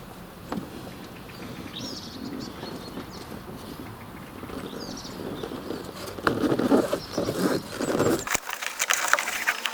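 Rustling and crackling handling noise that grows louder about six seconds in and turns into sharp clicks near the end, with a couple of faint bird chirps earlier on.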